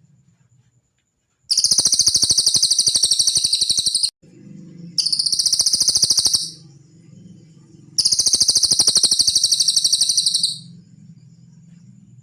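A cililin bird singing three bursts of fast, very high-pitched trilling, each a few seconds long, with short pauses between them; the first and last bursts are the longest.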